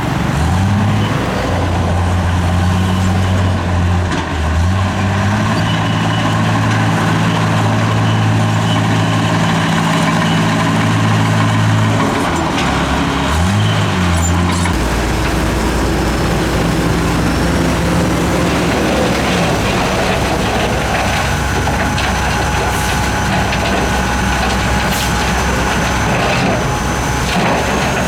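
Heavy diesel earthmoving machine working, its engine rising and falling in pitch several times, then settling into a steady lower drone about halfway through. A few sharp knocks follow later.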